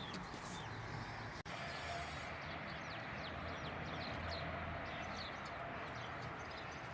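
Small birds chirping repeatedly in short, quick calls over a steady low rumble, with a momentary break about one and a half seconds in.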